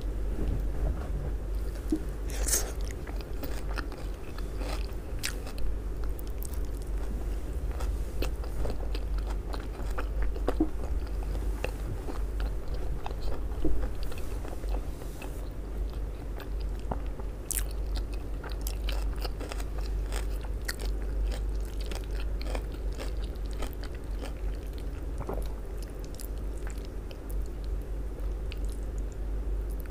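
Close-miked chewing and crunching of raw shredded cabbage salad, eaten by hand: a steady run of short crisp crunches and wet mouth sounds. A steady low hum runs underneath.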